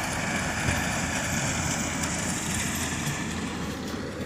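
A '240' tractor's engine running steadily while cutting wheat, getting a little fainter near the end.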